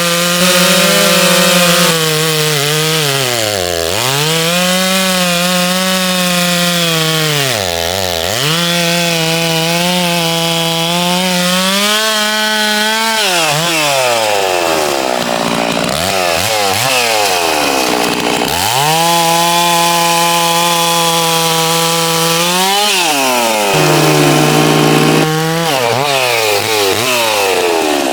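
Holzfforma G660 92cc two-stroke chainsaw running at full throttle, cutting wood. The engine note drops toward idle and climbs back several times as the throttle is let off and squeezed again.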